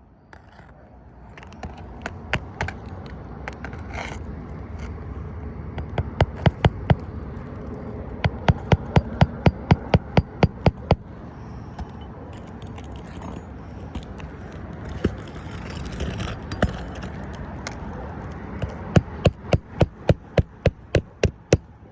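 Roofing nails being hammered into shingles: runs of sharp, evenly spaced strikes, about three a second, with pauses and a few single blows between the runs.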